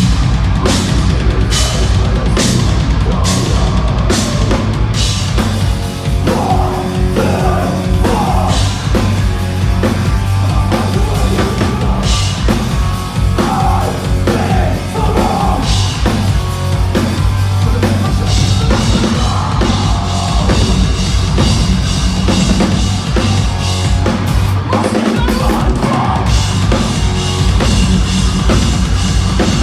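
Metalcore band playing live at full volume, with heavy rock drums driving throughout. The bass and kick drop out briefly about twenty-five seconds in, then the full band comes back.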